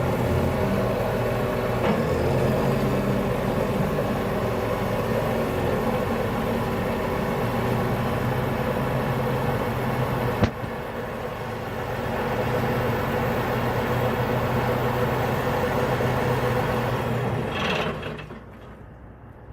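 Large diesel engine of farm machinery running steadily, with one sharp click about ten seconds in, after which it runs a little quieter; the sound drops away sharply near the end.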